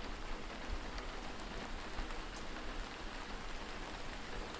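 Steady rain falling, an even patter with faint scattered drops and no thunder.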